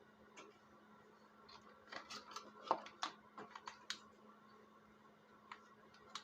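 A scattering of light clicks and taps, bunched together from about two to four seconds in, over a faint steady hum, like small hard parts or tools being handled.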